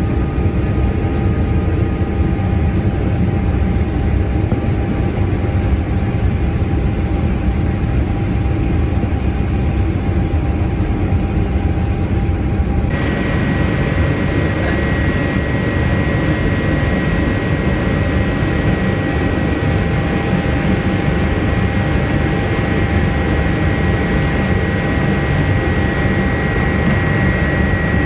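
Steady roar of a Boeing 787-8 jet airliner's cabin in flight: a low, even engine and air noise with a few thin steady tones. About 13 s in the sound changes abruptly, with more hiss and a steady high whine added.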